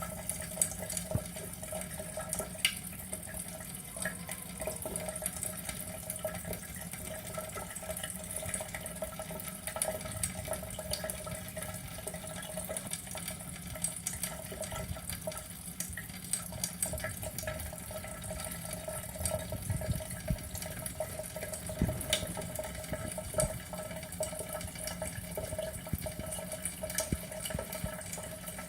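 Water running steadily, with scattered small clicks.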